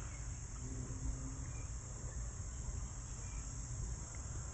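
Steady high-pitched insect chorus, typical of crickets, continuing unbroken, over a low rumble.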